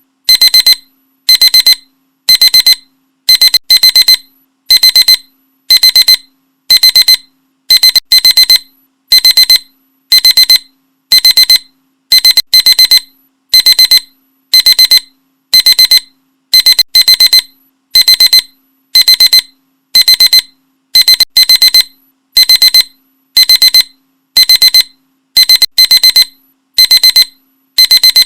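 Alarm clock ringing in short, loud, high-pitched bursts repeated about one and a half times a second, each burst dying away quickly.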